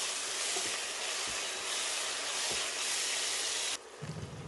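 Browned onions, coriander, mint and green chillies sizzling in hot oil and ghee in a steel pot as they are stirred, a steady hiss. The sizzle cuts off abruptly near the end, leaving a faint low hum.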